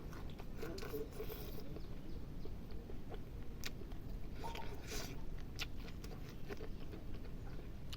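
A person chewing and eating food close to the microphone: scattered short clicks and smacks over a steady low background noise.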